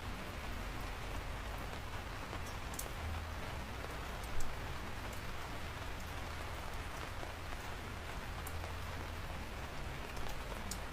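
Steady rain falling, with occasional sharp drop ticks and one louder knock about four seconds in.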